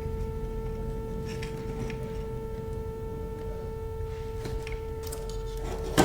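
A steady high-pitched electrical hum with a low hum beneath it. Faint handling clicks sound twice, and a sharp knock comes near the end.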